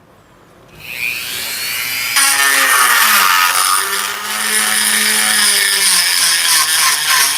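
Small rotary grinder with a rounded diamond bit spinning up about a second in, then grinding steel as it takes a lip off an old hammer head. It makes a high-pitched whine whose pitch sags and recovers as the bit bites.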